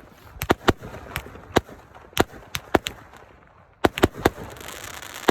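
Fireworks going off: a string of sharp bangs at uneven spacing, with a short lull about three seconds in, then more bangs over a hiss near the end.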